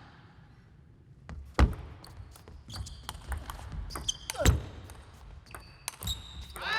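Table tennis point being played: quick sharp clicks of the ball off rackets and table, with two heavy thumps of players stamping on the court floor and a brief shoe squeak.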